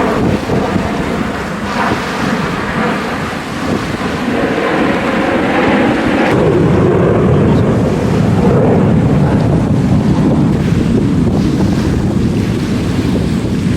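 Loud, steady rushing roar of jet aircraft engines. About six seconds in it grows louder and deeper.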